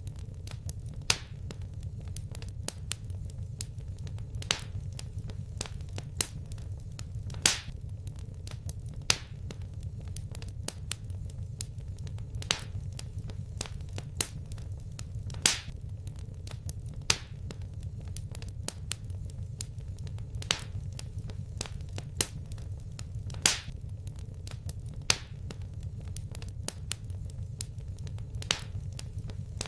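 Wood fire crackling in a fireplace: sharp pops every second or two over a steady low rumble.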